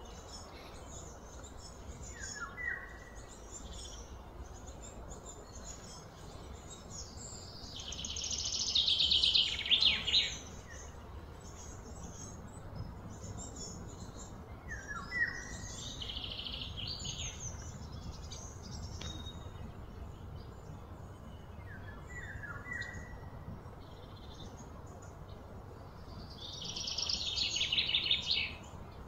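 Birds calling outdoors: scattered high chirps and short falling calls, with two louder high bursts that swell and then stop, about eight seconds in and near the end, over a steady low background rumble.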